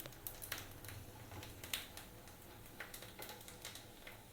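Whole spices frying in hot oil in a kadai, with faint, irregular crackling and popping.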